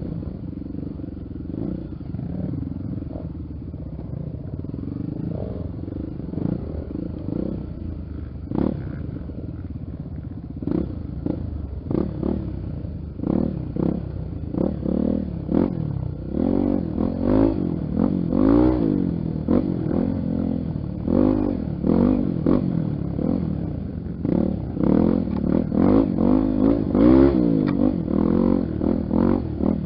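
Honda XR 250 Tornado single-cylinder four-stroke motorcycle engine being ridden over a dirt trail. It runs fairly steadily at first, then revs up and down repeatedly with the throttle from about halfway, with scattered knocks and clatter.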